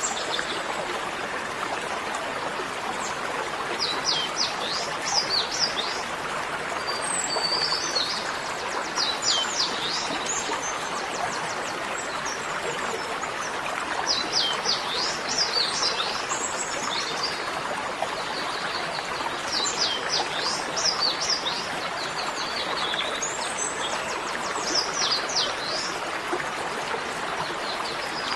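Birds chirping in short clusters of quick, high, falling notes that come back about every five seconds, over a steady rushing noise like running water.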